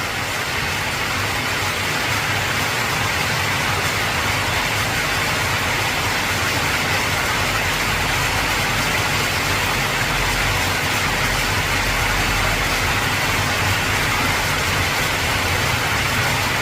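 Heavy rain pelting steadily on an old corrugated tin roof, with a low steady rumble underneath.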